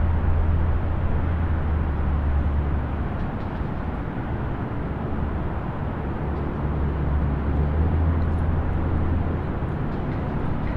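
Distant highway traffic: a steady wash of tyre and engine noise, with a deep low rumble that swells as heavier vehicles pass, once early on and again in the second half.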